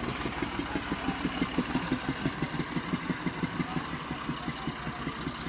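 Massey Ferguson 385 tractor's diesel engine running at idle after its rebuild, with an even, rapid chug of firing pulses that is a little louder in the first half.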